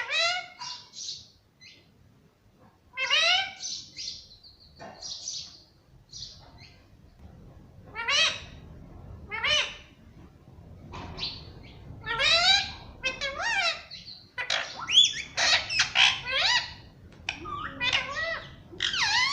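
Indian ringneck parakeet giving shrill, sweeping chirps and squawks in short clusters with pauses between them. The calls come thicker and faster in the second half.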